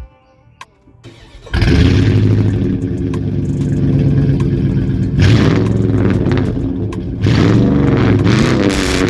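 A Dodge Durango's V8 fires up abruptly about a second and a half in, and its exhaust runs loud and deep through a 2-inch system with a Flowmaster Super 10 muffler. The engine is blipped up twice, about five and seven seconds in.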